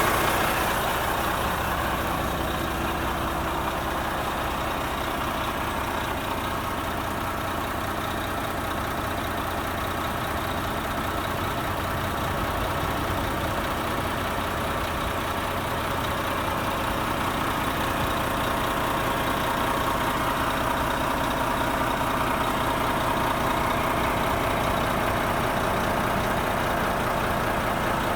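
Renault T460 tractor unit's 11-litre six-cylinder diesel engine idling steadily.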